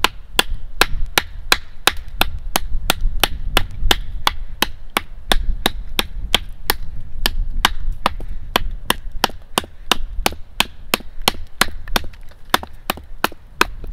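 Small Scandi-ground bushcraft knife swung by its lanyard, chopping into wood: a steady run of sharp wooden chops, about three a second.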